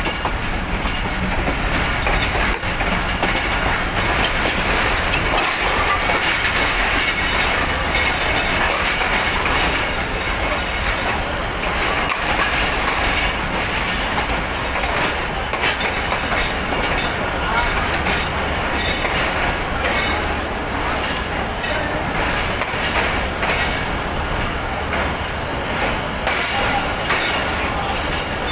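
Passenger train coaches arriving at a station, heard from an open coach doorway: steady running noise of wheels on rail with repeated clicks over the rail joints. Voices of a waiting crowd on the platform mix in.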